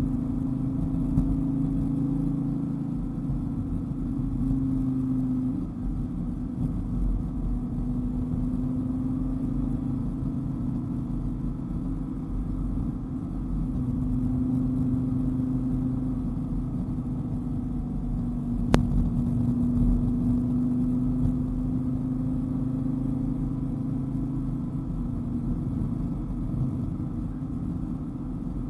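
Dodge Viper GTS's V10 engine running at a steady road pace, its drone swelling and easing a little with the throttle over tyre and road rumble. A single sharp click about two-thirds of the way through.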